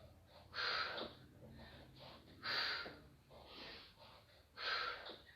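A person breathing hard under exertion during push-ups: about five sharp, breathy puffs, roughly one a second.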